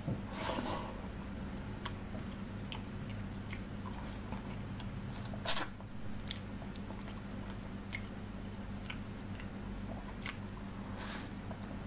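Close-miked wet chewing and biting of chicken feet curry and rice eaten by hand, with many small mouth clicks and three louder smacking bites: about half a second in, midway, and near the end. A steady low hum runs underneath.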